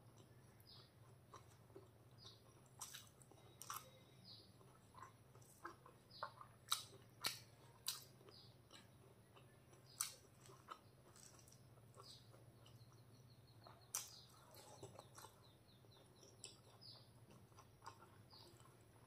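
Close-up mouth sounds of a person eating chicken pulao by hand: soft chewing with wet lip smacks and scattered sharp clicks, a few louder ones near the middle.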